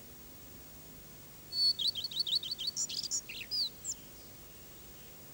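A small songbird sings one phrase about a second and a half in: a high note, then a quick run of repeated high notes that ends in a short, varied flourish.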